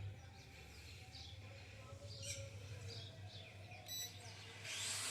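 Faint scattered bird chirps over a steady low hum, with a short electronic-sounding beep just before four seconds in.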